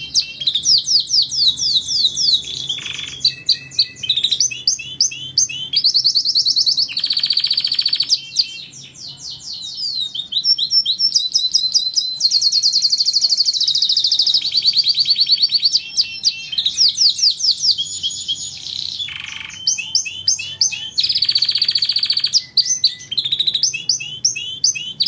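Domestic canary singing a long, continuous song of rapid trills and repeated sweeping phrases, high-pitched and without pause.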